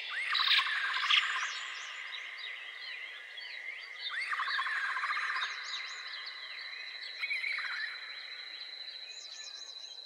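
Several birds singing and chirping together, one repeating the same short trilled phrase three times. A steady high whine runs beneath them through the second half.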